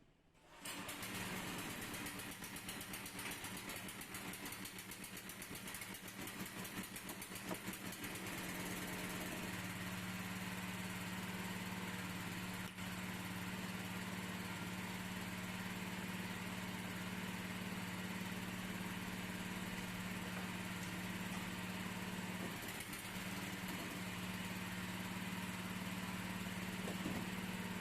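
Makita electric rotary hammer switched on about half a second in and running steadily, its motor giving a steady hum. A fast pulsing rides on it for the first several seconds, then it settles to an even run.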